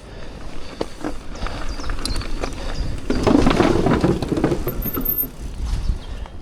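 A mountain bike riding over a dirt trail: tyres rolling and the bike rattling, with scattered knocks and a louder rough stretch about halfway through. Strong wind buffets the microphone.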